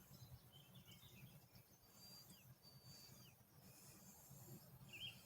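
Faint songbird chirps and short whistled calls, a few every second, over a low steady background rumble.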